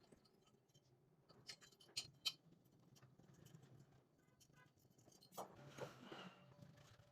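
Near silence with a few faint, short clicks and some light scraping, like small handling sounds.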